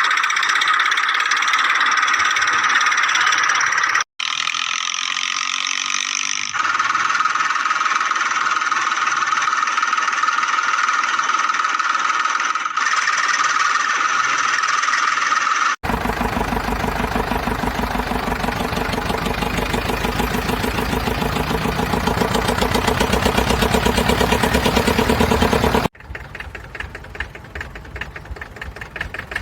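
Tractor engine running with a fast, even knocking rhythm. The sound changes abruptly at cuts about 4, 16 and 26 seconds in; it is higher-pitched before the 16-second cut and quieter after the one near 26 seconds.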